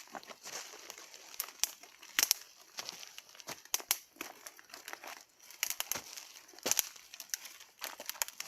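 Irregular sharp crackles and snaps from twigs and damp firewood on a small campfire. The fire is burning poorly.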